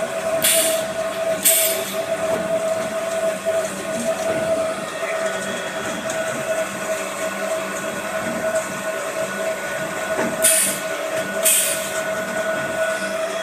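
Polystyrene foam hot-melting compactor running steadily with a constant whine and hum. Two pairs of short hisses, each about a second apart, come near the start and again near the end.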